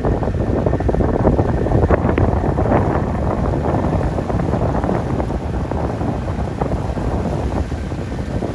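Loud, steady rush of wind buffeting the microphone aboard a moving boat.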